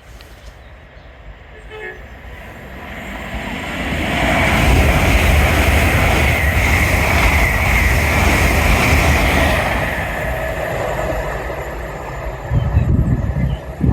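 A train passing at speed on the main line. Its rumble and rail noise build over a few seconds, stay loud for about five seconds, then fade, with wind buffeting the microphone near the end.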